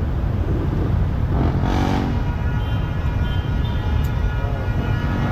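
Steady low rumble of wind on the action-camera microphone and road and traffic noise while cycling along a city street, with a brief louder burst about one and a half to two seconds in.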